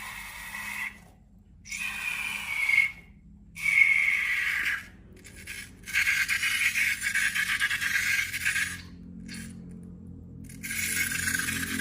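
Rubber balloons squeaking and rubbing as they are handled, in several bursts of a few seconds each that start and stop suddenly, with a fast fluttering squeak in the middle. Soft background music runs underneath.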